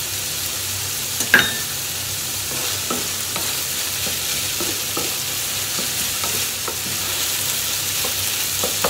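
Ground beef and bell peppers sizzling in a frying pan while a wooden spatula stirs and scrapes through them. A single sharp knock comes about a second and a half in.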